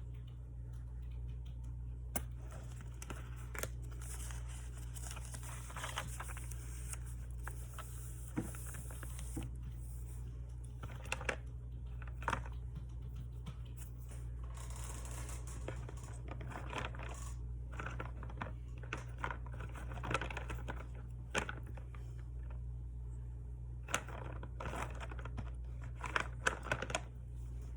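Close handling of paper and tape while decorating a planner: scattered clicks, rustles and short tearing sounds over a steady low hum.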